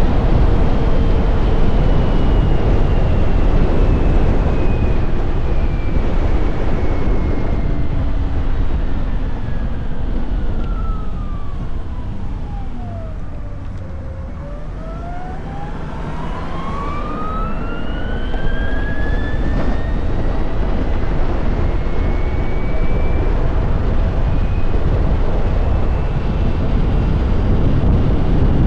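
Can-Am Pulse electric motorcycle on the move, with wind and road noise. The electric motor's whine falls steadily in pitch as the bike slows almost to a stop about halfway through, then rises again as it speeds back up.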